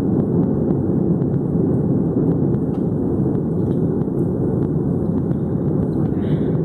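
Steady engine rumble of a Boeing 757 airliner heard inside the passenger cabin.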